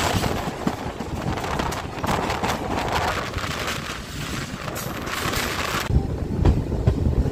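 Wind rushing over the microphone with the rumble of a moving passenger train, recorded from an open coach door while a second train runs alongside on the next track. About six seconds in, the sound changes abruptly to a deeper, heavier rumble with irregular thumps.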